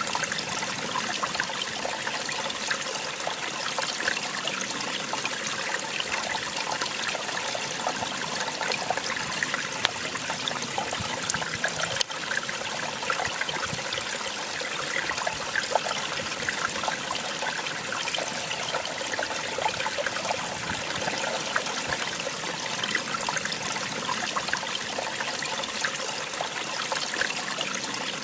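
Small waterfall: water splashing and trickling steadily, with one brief sharp click about twelve seconds in.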